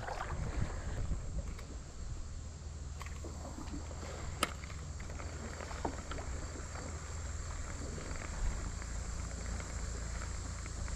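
Quiet movement and water sounds aboard a kayak on a river, over a steady low rumble, with one sharp tap about four and a half seconds in.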